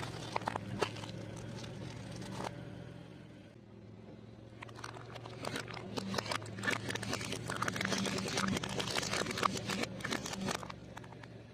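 Food crunching and crackling as it is crushed under a car, over the car's steady low engine hum. The crackling thins out about two and a half seconds in and comes back thicker and louder from about four and a half seconds until just before the end.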